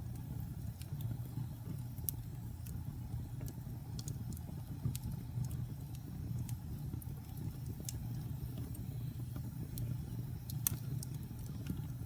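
Wood fire burning in a fireplace: a steady low roar of the flames with scattered sharp crackles and pops, a louder pop about two-thirds of the way in.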